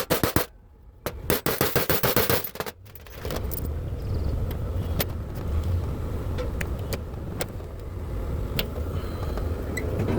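A screw extractor being worked to back out a broken gas valve from a cooktop. A quick run of sharp metallic clicks comes about a second in, then scattered light metal clicks over a steady low hum.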